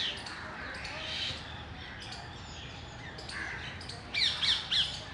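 Parrots calling: scattered high chirps over a steady background hum, then three loud, quick, high-pitched calls in a row near the end.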